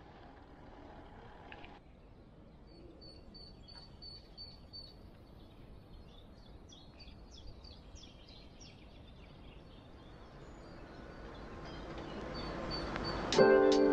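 Small birds chirping and singing in short, high calls against a faint steady outdoor hiss. Near the end a swell builds into music, and plucked notes start sharply just before the end.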